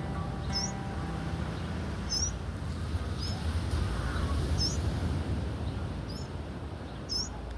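A small bird repeating a short, high, hooked chirp about six times, roughly once a second, over a steady low outdoor rumble.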